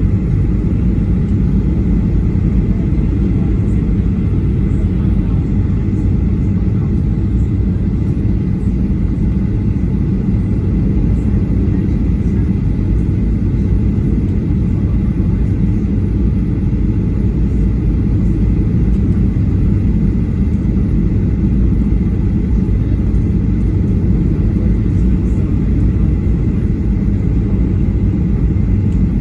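Steady low rumble of a Boeing 737-800's CFM56 engines and airflow, heard inside the passenger cabin in flight, with a faint steady whine above it.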